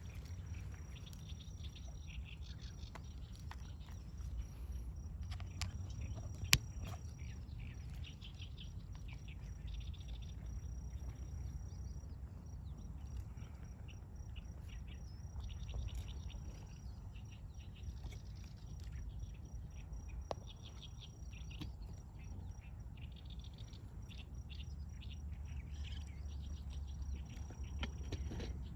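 Dawn chorus of small birds twittering in quick repeated chirps, over a thin high steady tone that comes and goes and a low rumble. A single sharp click about six seconds in.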